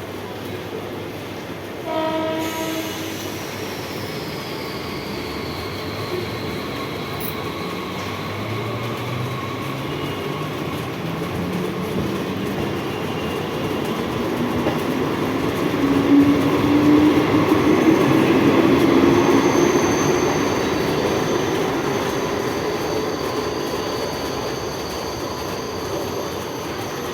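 Mumbai suburban EMU local trains: a short horn blast about two seconds in, then the electric traction motors whining steadily higher in pitch as a train gathers speed, loudest past the middle, over the continuous rumble and clatter of wheels on rails.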